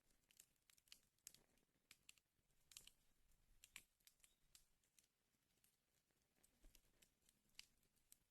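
Wood fire crackling faintly: irregular sharp pops and snaps of burning logs over a soft hiss, with a few louder snaps in the middle and near the end.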